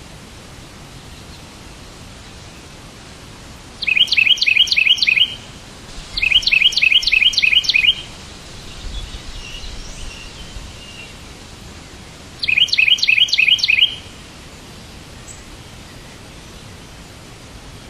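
A bird chirping in three quick bursts of rapid, evenly spaced high notes, about five a second, each burst lasting one to two seconds, over a steady low hiss.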